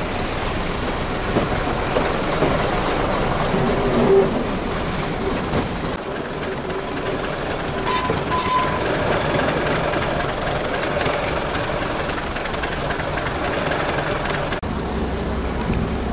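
Running noise of a moving heritage passenger train heard from an open carriage window: a steady rumble of wheels on the rails, mixed with wind. There are a couple of short high squeaks about halfway through.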